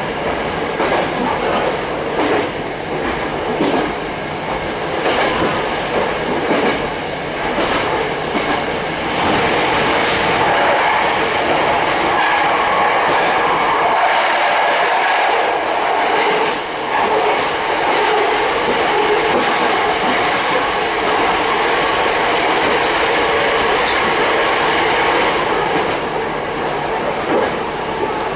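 Kitakinki Tango Railway train running, heard from inside the car: a steady rumble of the running train with repeated clacks as the wheels cross rail joints, the running noise growing a little louder about ten seconds in.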